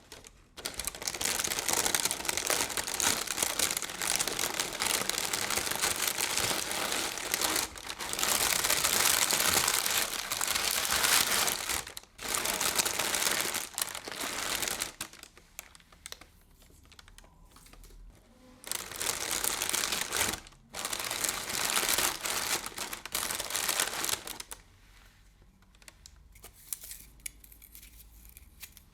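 Close-up crinkling of crinkly material, handled in long continuous stretches of several seconds with brief pauses, much quieter near the end.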